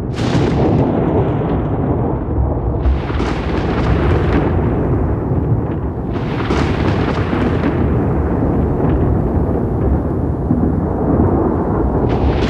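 Rolling thunder: a continuous deep rumble broken by sharp crackling peals right at the start, about three seconds in, about six and a half seconds in, and again near the end.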